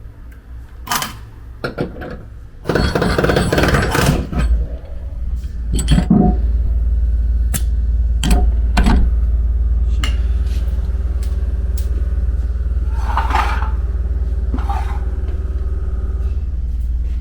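Metal clanks and knocks on sheet steel, with a scraping rattle about three seconds in, over a steady low machine drone that starts at the same moment and keeps running.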